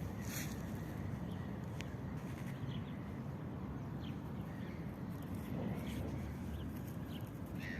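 Scattered short, faint chirps and whistles of common starlings over a steady low rumble.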